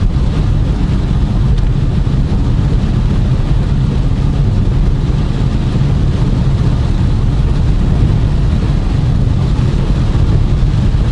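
Steady in-cabin noise of a car driving on a rain-soaked road: a low rumble of tyres and engine under a hiss of water, the tyres worn with no tread left.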